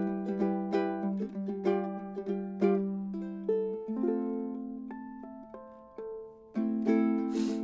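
Cedar-top, walnut-backed 2008 Pohaku concert ukulele played solo: a fingerpicked melody over chords, the notes ringing and fading. The sound dies away about six seconds in, then a fuller chord comes in just after, with a brief brushing scrape near the end.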